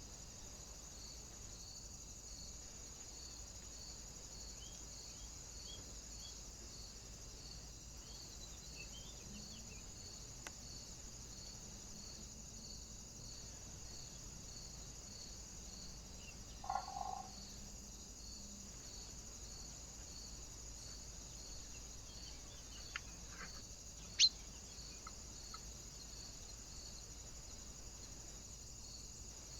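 Faint outdoor ambience at a bird feeder: an even high hiss with a soft chirp repeating about twice a second. A few short bird chirps sound near the end, with one sharp chirp the loudest, and a brief lower-pitched call or knock comes about two-thirds of the way in.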